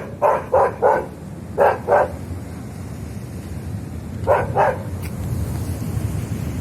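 A dog barking in short bursts: a quick run of four barks, then two, then two more a few seconds later, over a steady low background rumble.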